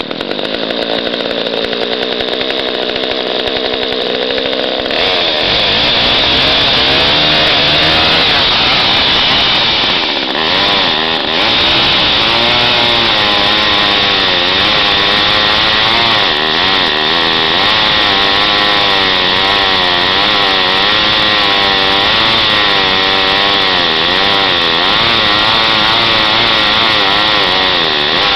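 Craftsman two-stroke chainsaw running just after a cold start, then opened up about five seconds in and cutting into wood, its engine pitch wavering up and down under load. The chain is dull, so it burns through the wood rather than cutting it.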